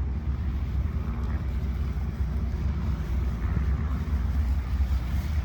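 A steady low rumble with a faint hiss over it.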